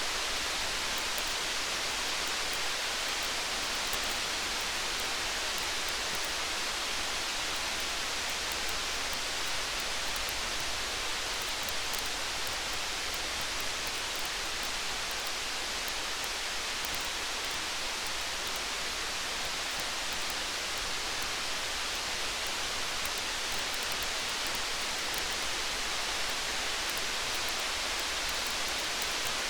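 Steady rain hiss with faint scattered ticks and crackles over it, part of a rain-and-campfire ambience. There is no music or voice.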